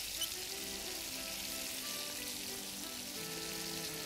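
Chopped tomatoes sizzling steadily in hot oil in a frying pan, with a light tick near the start. Soft background music comes in about half a second in.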